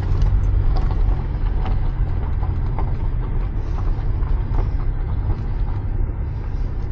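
Steady low rumble of a car on the move, heard inside the cabin of a Porsche 987.2 Cayman S, with a few faint ticks over it.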